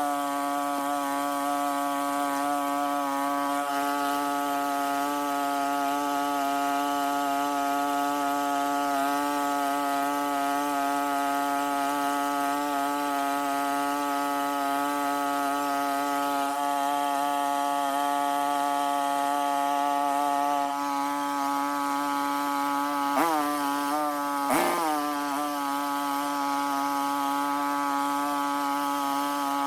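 Small two-stroke engine running steadily at high revs, its pitch dipping briefly twice about three-quarters of the way through.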